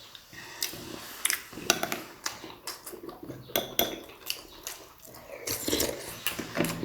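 Close-up chewing and wet mouth sounds from mouthfuls of momo dumplings, with irregular short clicks throughout and a few light clinks of dishes.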